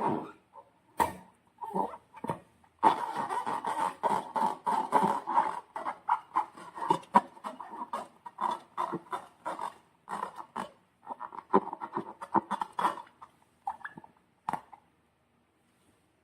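Slime being squeezed and kneaded by hand: irregular wet squelches and crackles of popping air pockets. It stops about three-quarters of a second before the end, after a short pause near the two-thirds mark.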